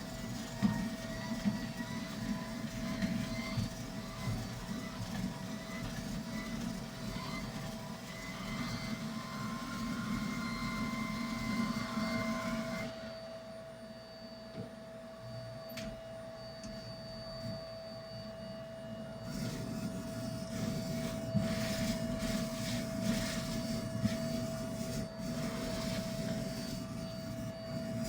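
Vacuum cleaner running with a steady motor whine, the noise of the suction rising and falling as it is worked over carpet. It goes quieter and duller for several seconds past the middle, then picks up again.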